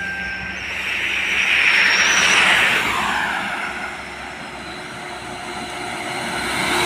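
Road traffic: a vehicle passes by, its tyre and engine noise swelling to a peak about two seconds in and then fading, and another vehicle approaches near the end.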